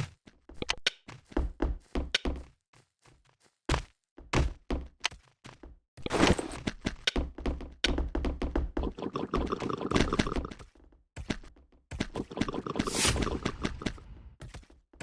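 Irregular knocks and thunks from objects being handled, with a longer stretch of dense rubbing and rustling about six seconds in and another shorter one near the end.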